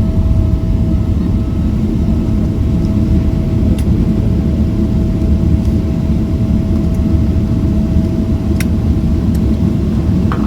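Steady low rumble and hum inside the cabin of a Boeing 777-300ER on the ground just after landing, with its GE90 jet engines running and a steady mid-pitched whine, plus a couple of faint clicks.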